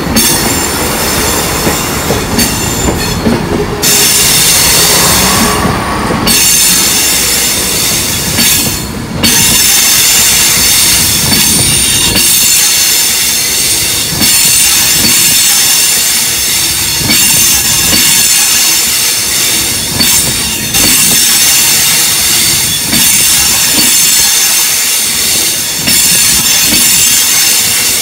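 Steel wheels of departing trains squealing on the rails: a loud, continuous high-pitched screech that cuts out briefly a few times in the first ten seconds. A lower rumble of the moving train runs under it for the first few seconds.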